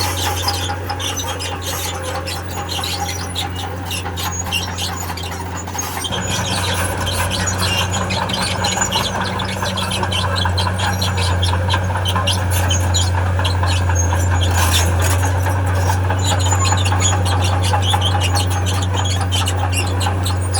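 Heavy crawler machine's diesel engine running steadily while its steel tracks squeal and clatter, growing louder about six seconds in.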